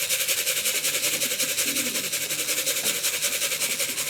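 Tin of pigeon feed shaken in a fast, steady rattle, about six shakes a second: the grain-tin call used to bring pigeons back into the loft.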